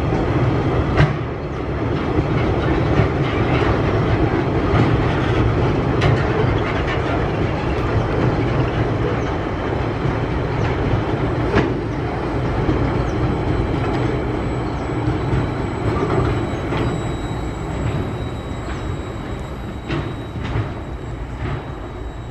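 Freight wagons of a Tasrail train rolling past, steel wheels rumbling and clattering on the track with scattered sharp clicks. The sound eases off slightly near the end as the last wagons draw away.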